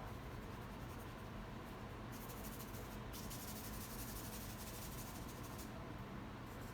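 Paintbrush bristles scratching and dabbing paint across the painting surface, a soft rasp that grows louder and brighter for a few seconds in the middle.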